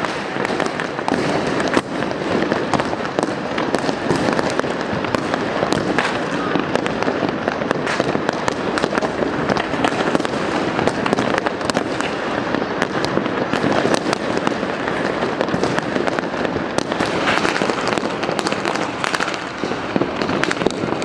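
Many fireworks and firecrackers going off at once, a dense, unbroken crackle of pops and bangs with no gaps.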